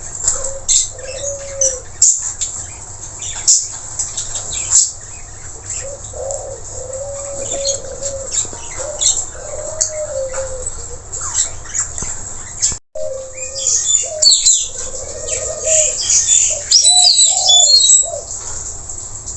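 Blue-rumped parrots (nuri tanau) calling: a string of sharp, high chirps and shrieks mixed with lower, arched whistled notes. The calls grow busier and louder for the last few seconds, after a brief break about 13 s in.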